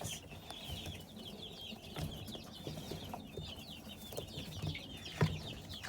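Many chicks peeping continuously as a dense stream of short, high, falling chirps, with a few soft knocks and one louder knock about five seconds in.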